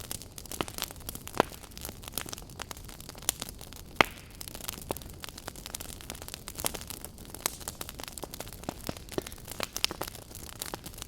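Log fire crackling: irregular sharp pops and snaps over a low steady hiss, with one louder pop about four seconds in.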